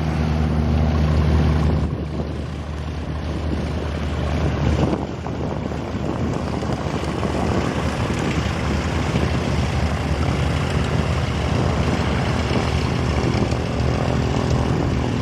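Single-engine light aircraft's piston engine and propeller running: a steady low hum that is clear for about the first two seconds. After that it gives way to a broad rushing noise at much the same loudness.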